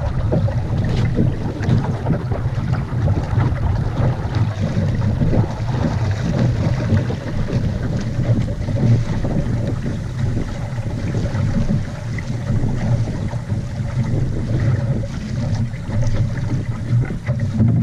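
Steady wind buffeting the microphone aboard a small sailboat under way, over the wash of water.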